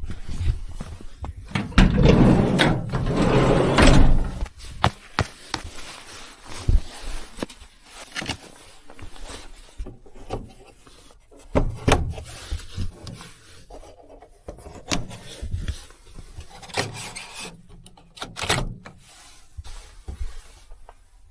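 Irregular rubbing and scraping with scattered sharp knocks and clicks, as of objects being handled and shifted, heaviest about two to four seconds in and sparser after.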